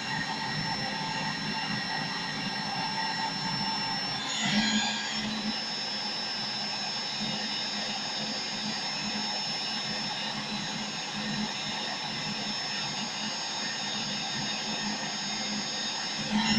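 Handheld hair dryer running steadily: the even rush of blown air with a thin fan-motor whine, heating a plastic headlight bulb socket to soften it. The sound swells briefly about four seconds in and again near the end.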